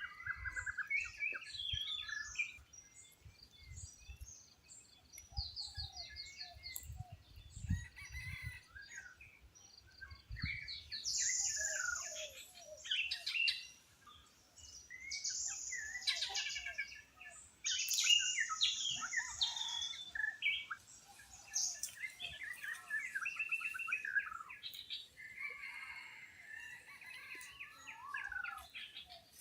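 Many birds chirping and calling over one another in a dense chorus, with a few louder, buzzier calls in the middle. Soft low thuds sound now and then during the first ten seconds.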